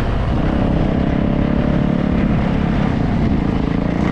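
Yamaha YZ450F dirt bike's single-cylinder four-stroke engine running under way at a fairly steady throttle, loud and close.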